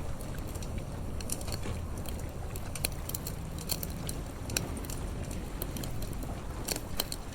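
Wood fire crackling, with irregular sharp pops and snaps scattered through, over a steady low rumble.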